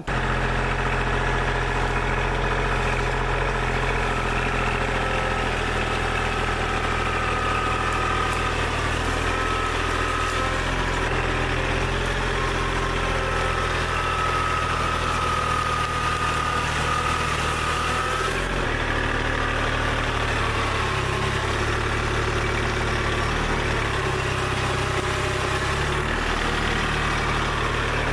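Kubota L2501 tractor's three-cylinder diesel engine running steadily, with its note shifting about two-thirds of the way through.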